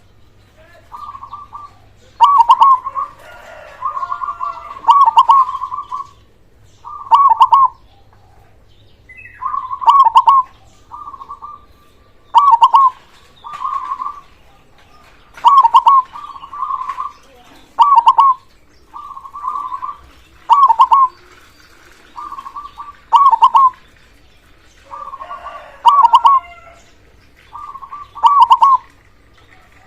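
Zebra dove cooing loudly: short trilled, staccato coo phrases repeated about every two to three seconds.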